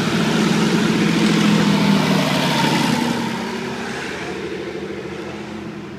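Tractor engine running as the tractor passes close by on the road, loudest about a second or two in and then fading away as it moves off.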